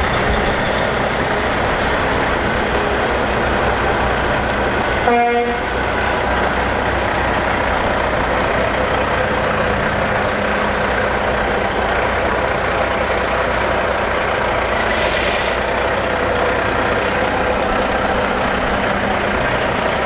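Heavy trucks driving past in a parade, a steady mix of diesel engine and tyre noise. About five seconds in a truck gives one short horn blast, the loudest moment, and around fifteen seconds there is a brief hiss of air.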